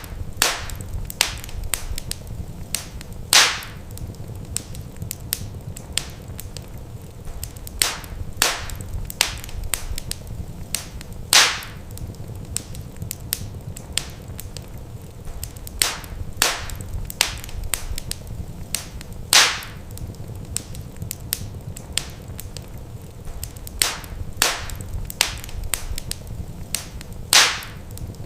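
Wood fire crackling, with frequent sharp snaps and pops at irregular intervals over a steady low rumble. Now and then a louder pop stands out, about every eight seconds.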